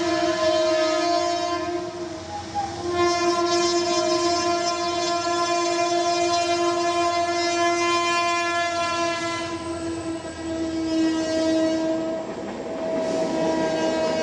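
Train horn sounding in long, steady blasts, briefly breaking off about two seconds in and again near the end before sounding once more.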